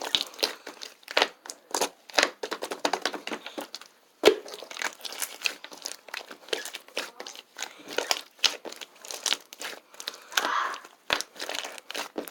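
Clear slime being squeezed and played with by hand: a quick, irregular run of sticky clicks, pops and crackles, with one louder snap about four seconds in.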